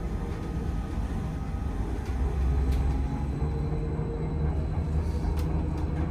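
Inside a VMZ Avangard trolleybus on the move: a steady low rumble of the running bus, with the hum of its electric drive, a steady tone joining about two seconds in and a higher one a second or so later.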